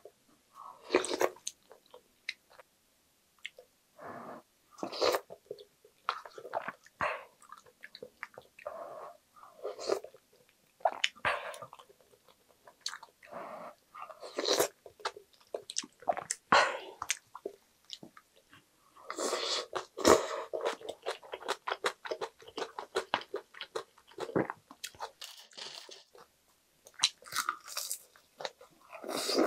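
Close-miked chewing and crunching of yeolmu (young radish) kimchi bibimbap: irregular crisp bites with short pauses between, and a dense run of crunching about two-thirds of the way through.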